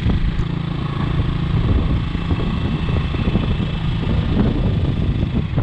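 A vehicle engine running steadily close by, with a dense low rumble.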